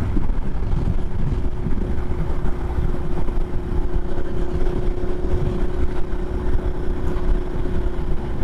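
Adventure motorcycle riding along at a steady speed: the engine runs evenly under a dense rumble of wind and road noise, with one droning tone held at a steady pitch.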